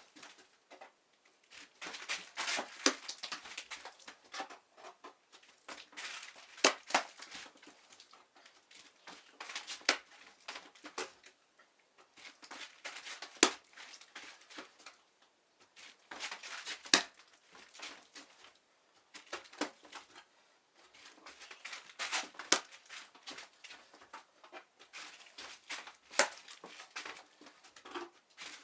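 Repeated bursts of scraping and rustling with sharp clicks, coming back about every three seconds, like hand work on a surface.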